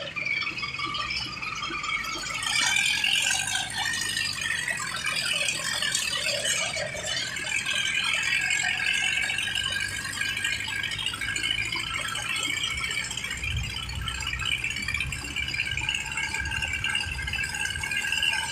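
Metal rattling and clattering from a tractor on the move, over the low steady drone of its engine.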